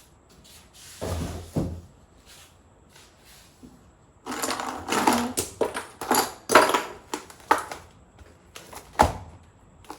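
Rustling and clattering of plastic food bags and containers being handled and moved about, with a few knocks about a second in and a busier stretch of rustling and knocking in the second half.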